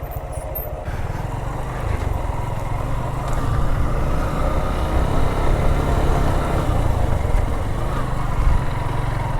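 Motorcycle engine running under load while riding a steep dirt hill track, a steady low throbbing mixed with noise, growing a little louder about a second in.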